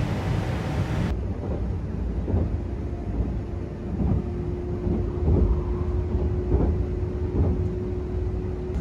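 Cabin noise of an E6 series Shinkansen train running at about 75 km/h: a steady low rumble from the running gear, with a run of knocks from the wheels on the track and a steady hum from about two and a half seconds in.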